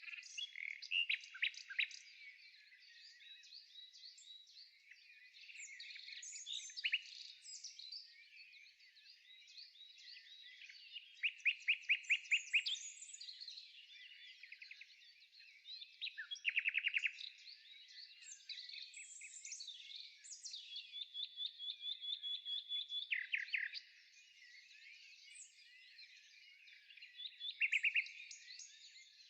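Several songbirds singing: overlapping chirps, short fast trills and runs of quick repeated notes over a constant high chatter.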